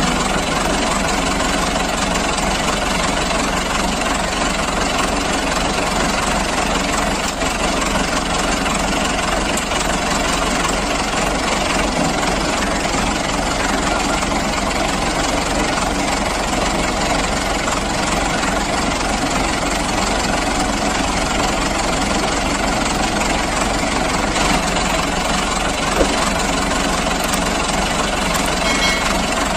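Heavy vehicle engine running steadily at an even, unchanging level.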